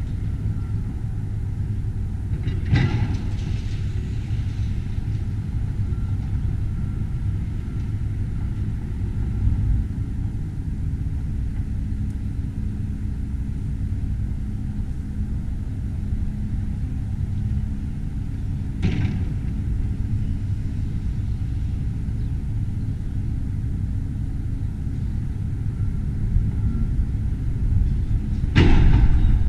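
A heavy demolition machine running steadily, with sharp crashes at about 3 seconds in, again near 19 seconds, and a louder one near the end.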